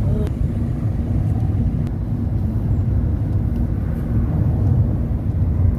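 Steady low rumble of a car driving, engine and road noise heard from inside the car.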